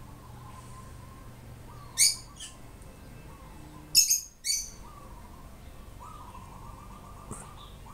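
Short, sharp, high-pitched bird chirps: one about two seconds in, two in quick succession about four seconds in, and a faint one near the end.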